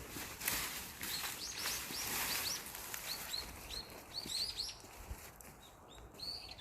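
Small birds chirping: a quick run of short, high chirps that carries on through most of the stretch. A rustling noise sits under the first couple of seconds.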